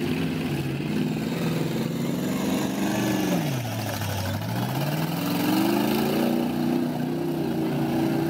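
Demolition derby car engines running hard in the mud. One engine's revs drop off about three and a half seconds in, then climb again about a second later and hold high.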